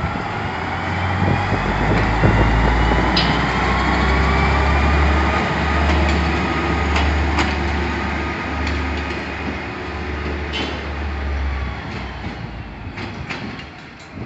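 Train running past on the station tracks: a heavy low rumble with a slowly gliding whine and sharp wheel clicks over rail joints, fading away over the last couple of seconds.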